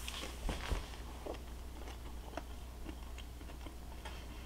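A person biting and chewing a crispy, crumb-coated air-fried pork chop. There are faint crunches, the loudest about half a second in, then quieter chewing.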